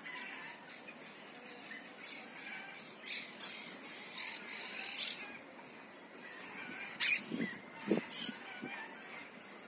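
Birds calling outdoors: scattered short calls, the loudest two coming about seven and eight seconds in.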